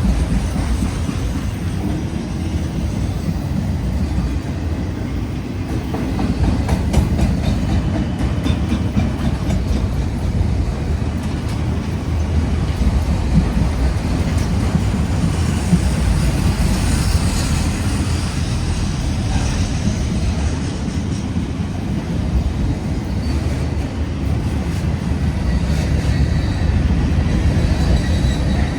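A CSX manifest freight train rolling past at close range: a steady, heavy rumble of freight cars, with wheels clacking over the rail joints and faint wheel squeal now and then.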